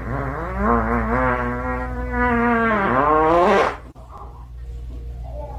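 An animal's long, drawn-out pitched call, held steady for a couple of seconds and then rising in pitch before breaking off, over a steady low hum.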